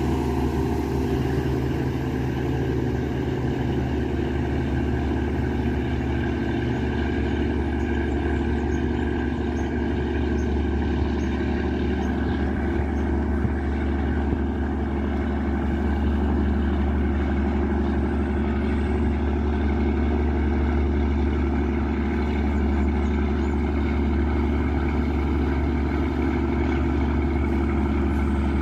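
Riverboat's Yanmar 829 hp marine diesel engine running, a steady, unbroken drone.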